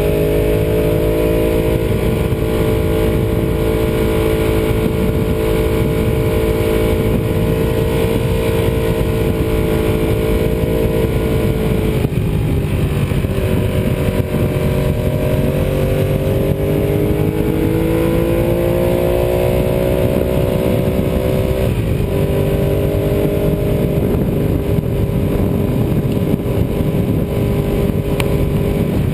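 Ducati 748R's V-twin engine running under way, heard from on the bike with wind noise. The engine note holds steady, falls away about twelve seconds in, climbs again as the bike picks up speed, and drops suddenly a little past twenty seconds before settling steady again.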